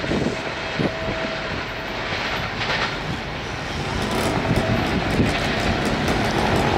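Diesel-hauled passenger train receding down the line: a steady rumble of engine and wheels, with a faint thin whine that comes and goes. The rumble grows louder in the second half.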